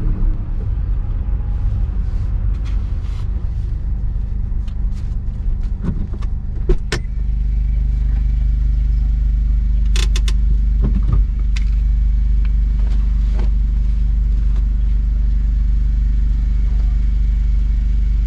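Honda S660's small turbocharged three-cylinder engine running steadily. Its low rumble grows louder about seven seconds in, and a few sharp clicks and light rattles come over it.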